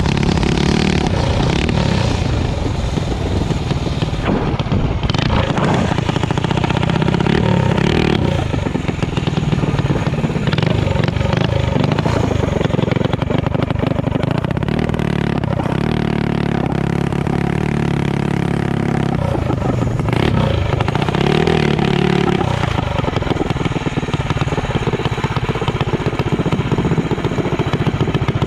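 Mini drag bike engine running loudly and steadily, with some clatter.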